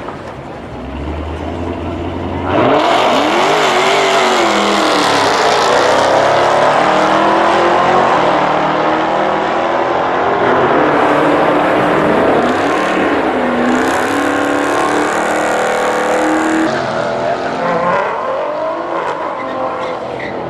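Jaguar F-Type and Dodge Hellcat launching off a drag-strip start line: a low rumble at first, then about two and a half seconds in a sudden loud burst of engine noise, the pitch rising and dropping again at each gear change, fading near the end as the cars run off.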